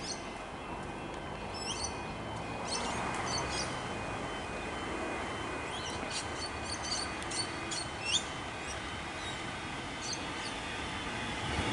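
An approaching X'Trapolis electric train gives a steady distant rumble and hum that grows louder near the end. Birds chirp briefly several times over it.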